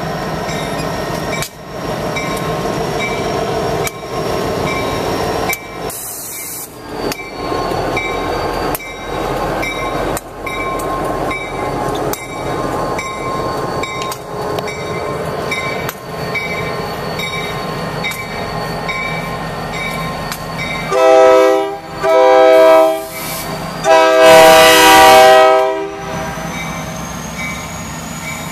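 Diesel freight train rolling by, its wheels clicking over rail joints under a steady rumble. Near the end a locomotive air horn sounds three loud blasts, two short ones a moment apart and then a longer one.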